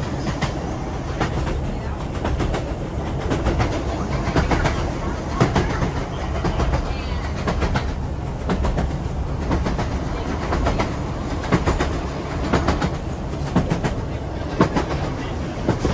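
Train running along the track: a steady low rumble with the wheels clicking over the rail joints.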